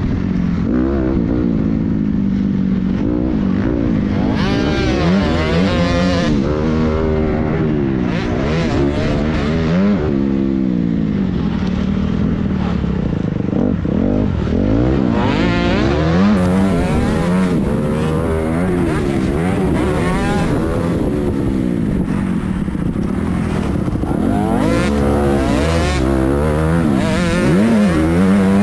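Several motocross dirt bikes riding a track together, their engines revving up and dropping off over and over as they accelerate, shift and brake, with the notes of different bikes overlapping.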